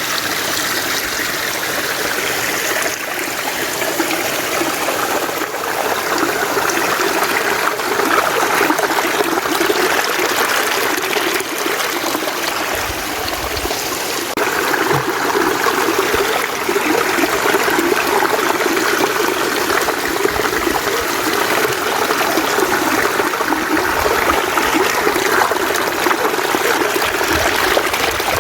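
Mountain stream running steadily over rocks: continuous water flow and trickling with no breaks.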